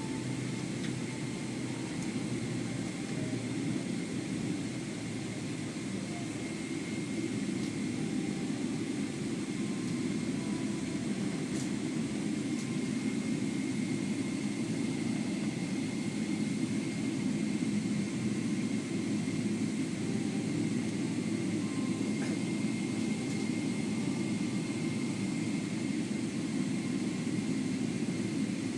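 Boeing 777-300ER cabin noise: the steady drone of its GE90 jet engines and the airflow, heard from inside the passenger cabin, with a faint steady high whine running through it.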